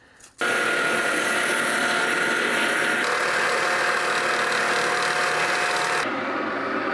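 Sawmill engine running steadily with a constant whine over a dense hiss, starting abruptly about half a second in; the high hiss drops away near the end while the engine carries on.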